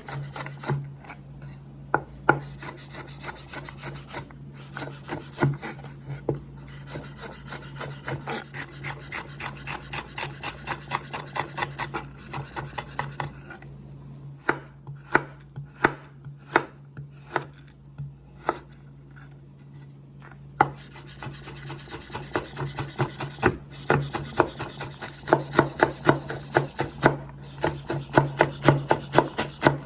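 Knife chopping on a cutting board in runs of about two to three strokes a second, thinning out to scattered strokes in the middle, over a steady low hum.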